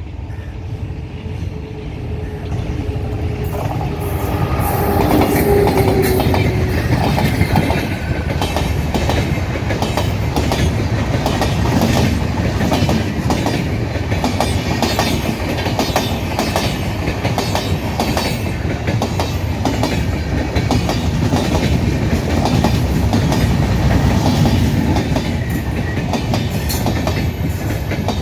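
Express train hauled by a WAP-7 electric locomotive passing at speed, its wheels clattering over rail joints in a rapid, continuous clickety-clack that builds over the first few seconds and then stays loud. A held horn tone sounds in the first few seconds as it approaches.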